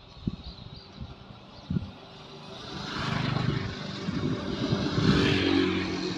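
A motor vehicle engine passing: it grows louder from about halfway in, is loudest near five seconds, then starts to fade. A few knocks come before it.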